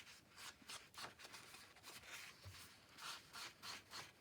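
Faint, repeated soft scratchy strokes of an ink dauber rubbed along the edges of paper pages, a few strokes a second.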